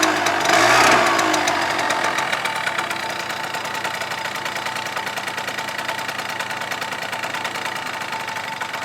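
Suzuki Address V100 scooter's 100 cc two-stroke single-cylinder engine, given a short blip of throttle about half a second in, then settling to a steady idle. The engine is described as in good running order.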